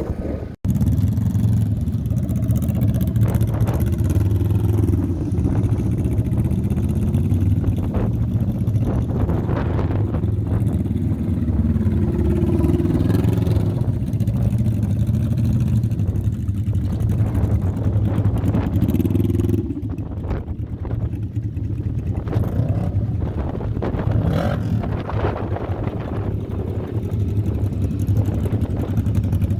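Off-road race vehicle engines running and revving on a dirt track, their pitch rising and falling. The sound cuts out briefly about half a second in and changes character about two-thirds of the way through.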